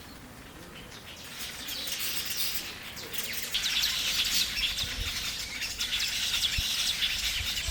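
Black-headed weaver colony chattering: many high chirps overlapping, building up about a second and a half in.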